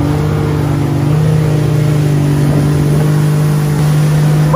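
Jet ski engine running steadily just after starting, holding an even low note.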